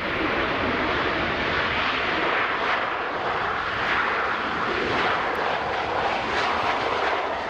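Jet airliner engines running with a steady, even roar.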